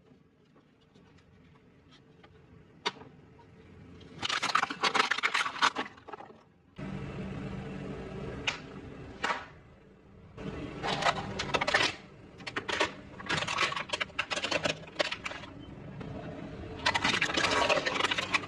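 Close-miked crunching of fried food being bitten and chewed, in several bursts with sharp clicks between. A steady low hum comes in suddenly about seven seconds in.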